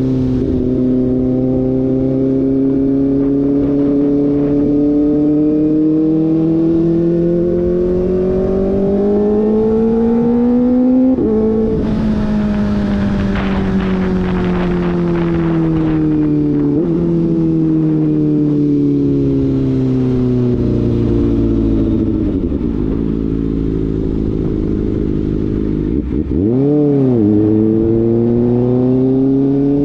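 Kawasaki ZX-4RR's 399 cc inline-four through an SC-Project slip-on exhaust, pulling steadily up in revs for about ten seconds, then a gear change and a long fall in revs as it eases off. Near the end the pitch jumps up and drops quickly, then climbs again.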